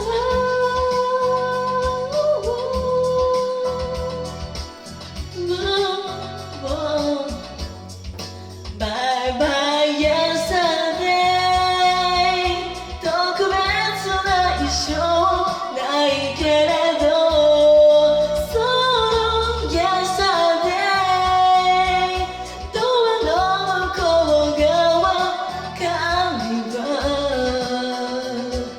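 Solo singing over a karaoke backing track, the voice holding notes and sliding between them.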